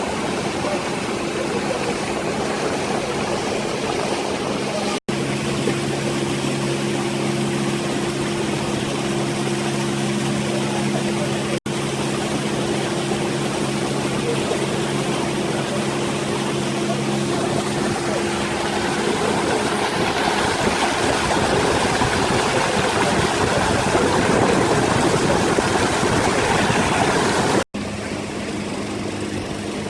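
An engine running steadily under a loud wash of noise, its hum clearest through the middle, while the noise swells near the end. The sound cuts out for an instant three times.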